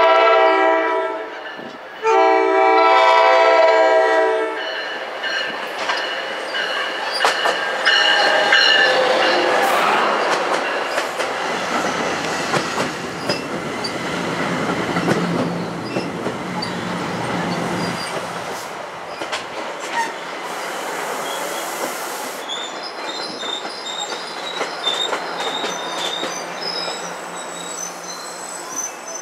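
Passenger train horn sounding two long blasts, the second a little longer. The train then runs past, its wheels clicking over the rail joints. As the noise dies down, the grade-crossing bells ring at a steady rhythm.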